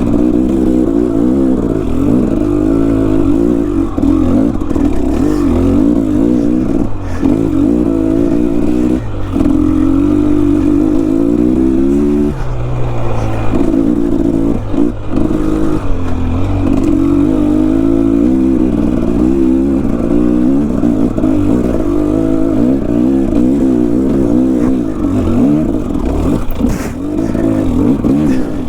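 Off-road enduro motorcycle engine revving up and down with constant throttle changes as it climbs a rough, steep trail, with a brief drop-off about twelve seconds in. Occasional knocks and clatter come from the bike over rocks and roots.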